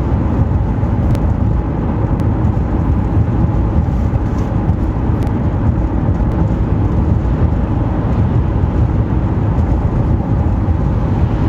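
A car driving: steady road and engine noise with a strong low rumble.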